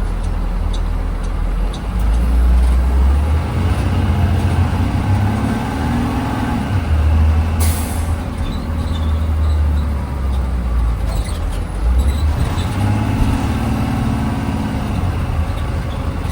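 A 2020 Blue Bird Vision school bus driving, heard from on board: a steady low engine and road rumble whose engine note rises and falls twice. A brief hiss comes about eight seconds in.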